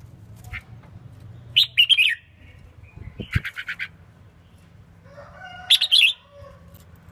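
Red-whiskered bulbul, a female, calling in three short bursts of chirps: one about one and a half seconds in, a quick run of about six notes in the middle, and another near the end. A low hum runs underneath, with a brief low thump in the middle.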